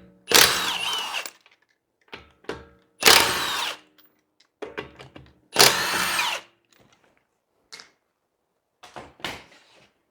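Half-inch-drive impact wrench with a 19 mm socket loosening wheel lug nuts in a star pattern: three hammering bursts of about a second each, with light clatter of the socket and nuts between them.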